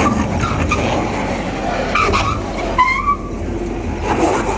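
A car climbing a steep ferry loading ramp, its engine working hard as the driver struggles to get it up, with a few short squeals mixed in.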